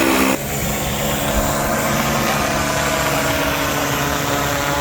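Drone propellers running with a steady, many-toned hum that drops slightly just after the start.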